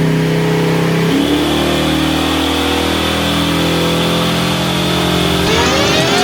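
Ford Ranger's swapped-in 5.3-litre V8 running at a steady speed, its pitch shifting about a second in, then revving up sharply near the end.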